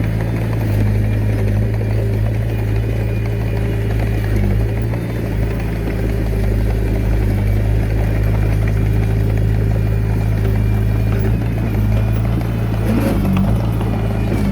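Komatsu D21A mini bulldozer's diesel engine running at a steady speed, with a short change in pitch about thirteen seconds in.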